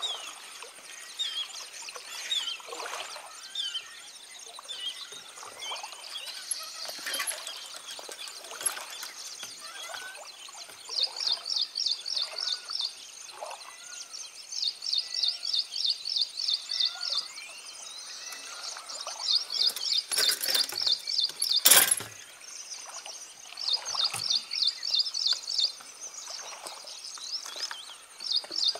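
Birds calling in the open countryside: scattered chirps, with four bouts of a fast, evenly repeated high note series about two seconds each. A single sharp click about three-quarters of the way through.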